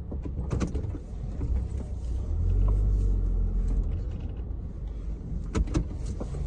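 Car engine and road rumble heard inside the cabin, swelling briefly near the middle, with a few light clicks and knocks.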